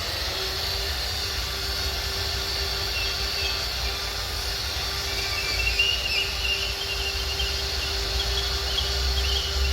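Electric drill spinning a foam polishing pad at a steady speed, buffing a plastic headlight lens with polishing paste: a constant motor hum with a hiss. Birds chirp faintly in the background from about three seconds in.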